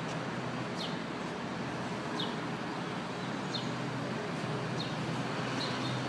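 A bird chirping repeatedly, a short high falling chirp every second or so, over a steady hum of city traffic.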